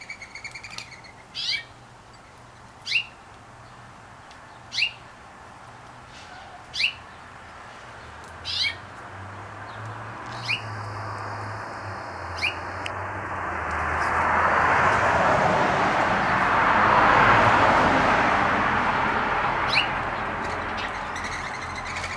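A small songbird repeating a single sharp chirp about every two seconds. Partway through, a broad rushing noise swells up, becomes the loudest sound, and slowly fades, while the chirps go on less often.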